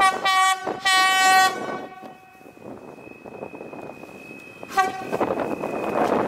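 Stadler FLIRT multiple unit sounding its horn: two blasts in quick succession, the second fading out, then a short toot near the end. A thin steady high tone runs under it after the blasts.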